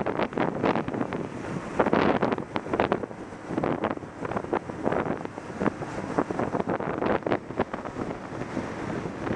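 Heavy wind buffeting the microphone of a camera on a moving motorcycle, a gusty rush that surges and drops irregularly and drowns out the engine.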